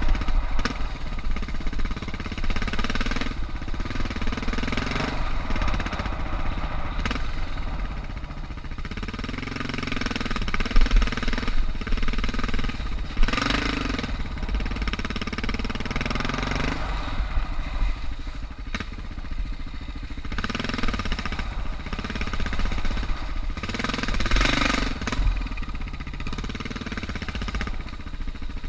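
Suzuki DR650's single-cylinder four-stroke engine running on a dirt trail, its pitch rising and falling as the throttle opens and closes. A few brief louder rushes of noise come through, one about halfway and one near the end.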